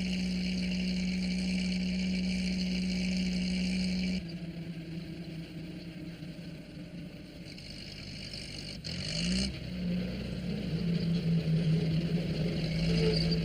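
Engine sound effect of a small post van running at a steady hum. The sound cuts abruptly to a quieter stretch about four seconds in. Around nine seconds the engine revs up in a short rise in pitch and settles back into a steady run.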